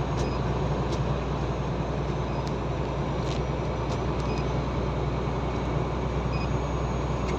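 Inside a moving truck's cab: the engine's steady low drone with tyre and road noise.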